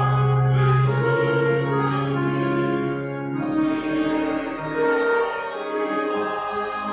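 Church organ playing sustained chords, with a low bass note held for about the first three seconds.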